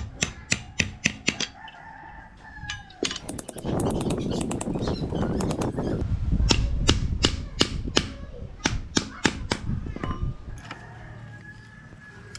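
Hammer blows at a blacksmith's forge: two runs of sharp strikes, about three a second, with a loud rushing noise between them.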